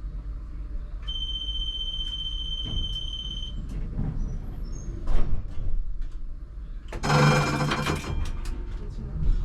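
Inside the cab of a ČKD Tatra T3R tram: a steady high electronic beep lasting about two and a half seconds, then scattered clunks, and a loud rattling clatter with a low hum about seven seconds in, over a constant low rumble.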